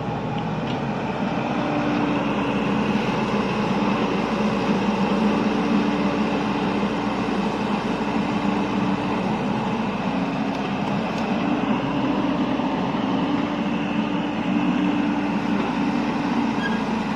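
Heavy diesel machinery engine running steadily under load, a continuous drone whose pitch wavers slightly.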